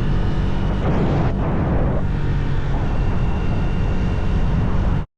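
Motorcycle engine running under way with heavy wind rush on the microphone, then cutting off abruptly near the end.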